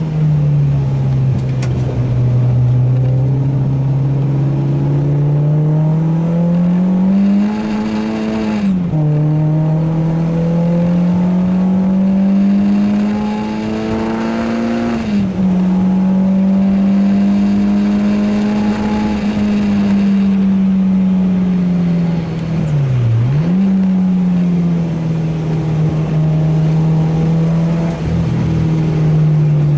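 Renault Clio 2 RS's 2.0-litre four-cylinder engine running hard under load. Its revs climb steadily and drop sharply at upshifts about nine and fifteen seconds in, then ease off, with brief quick dips in revs near twenty-three seconds and again at the very end.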